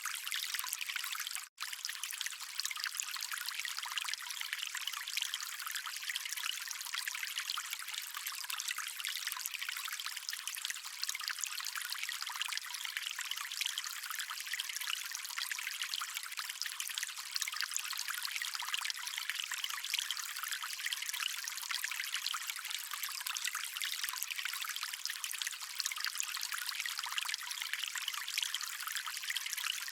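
Stream water running steadily, a bright trickling rush with almost no low rumble. It drops out for a split second about one and a half seconds in.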